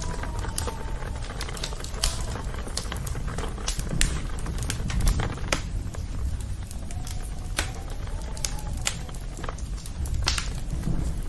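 Campfire of burning wood crackling and popping with sharp, irregular snaps over the low, steady rumble of the flames.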